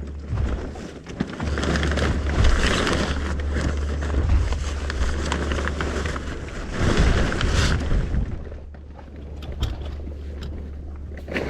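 Wind rushing over the microphone aboard a sailboat in a fresh breeze, swelling in gusts a couple of seconds in and again about seven seconds in, over a steady low hum.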